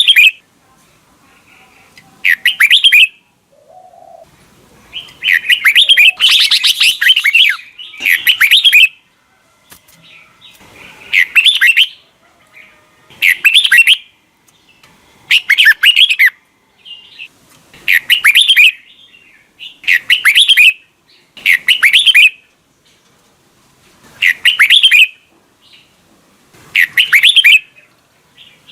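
Red-whiskered bulbul singing loud, short, chirping song phrases, each about a second long and repeated every two to three seconds.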